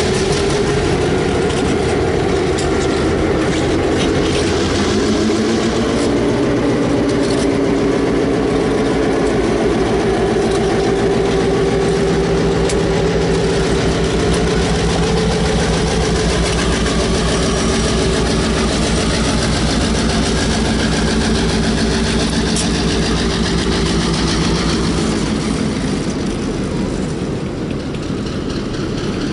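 A diesel locomotive engine running with a steady pulsing note that rises in pitch about five seconds in as it works harder, then eases off near the end.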